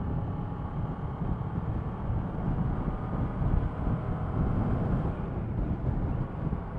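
Riding a Kawasaki ER-6f motorcycle: its parallel-twin engine runs steadily under a heavy rush of wind buffeting the microphone.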